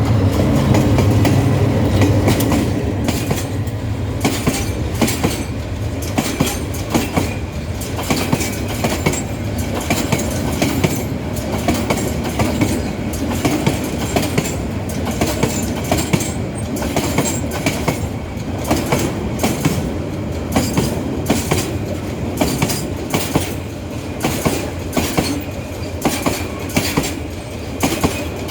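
Freight train rolling past, its wagon wheels clacking over the rail joints in a steady run of paired clicks. A low engine drone is heard in the first few seconds, as the locomotive goes by.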